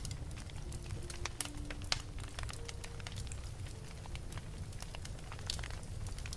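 Wood fire in a fireplace crackling, with sharp pops coming at irregular moments over a steady low rumble of the flames.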